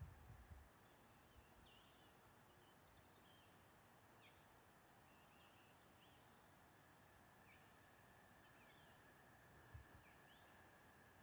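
Faint birdsong: short, high chirps and quick falling notes scattered throughout, over a steady faint background hiss, with a soft low thump at the start and another near the end.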